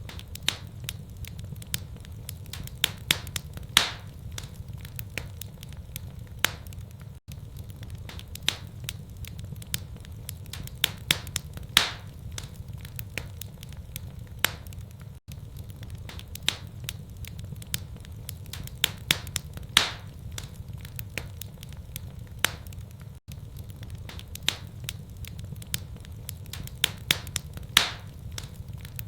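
Wood fire in a fireplace crackling, with irregular sharp pops over a steady low rumble. The same eight-second stretch of pops repeats over and over.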